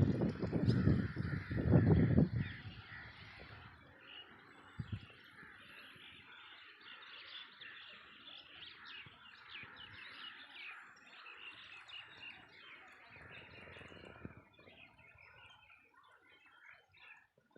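Birds chirping and calling in many short, quick notes, thickest through the middle and thinning near the end. A loud low rumble covers the first two seconds, and a single low thump comes about five seconds in.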